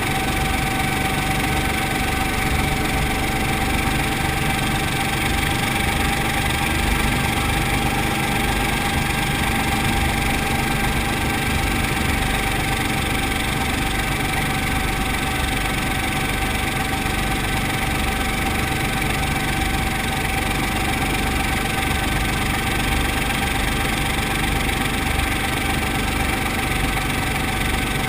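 Brantly B2B helicopter's piston engine and rotor running steadily, with a thin steady whine over the engine noise.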